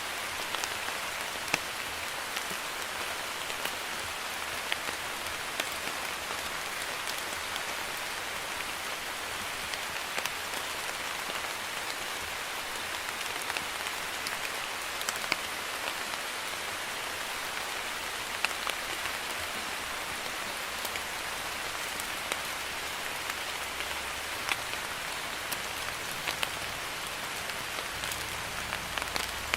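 Steady drizzle: light rain hissing evenly, with scattered individual drops ticking sharply on a surface.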